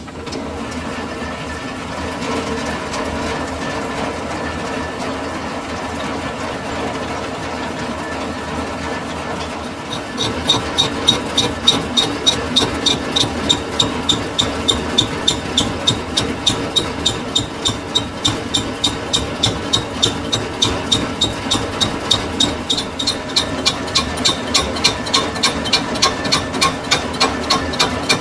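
Metal lathe running with a steady hum. About ten seconds in, a regular sharp ticking starts over it, roughly three to four ticks a second, and carries on.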